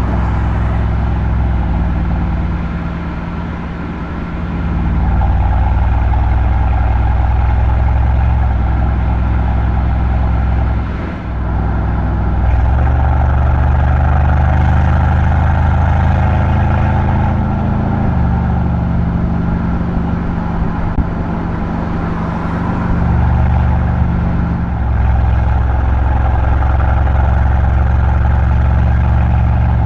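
Mercedes-AMG C63's M177 twin-turbo V8 running while the car is driven, a steady low exhaust drone. The pitch steps up or down several times, and the drone briefly dips in loudness about 3 seconds in and again about 11 seconds in.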